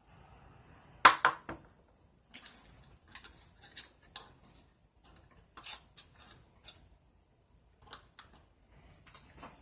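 Small metal parts and tools clicking and clinking as they are handled, in an irregular series of light clicks, the sharpest about a second in.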